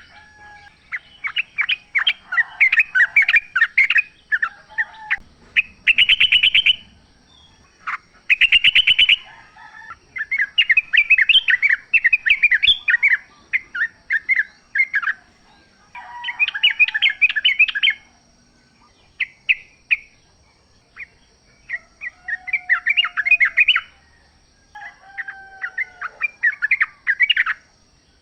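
Yellow-vented bulbuls singing in the wild: repeated bursts of rapid, bubbling chattering notes a second or two long, with short lower whistles that slide downward between them.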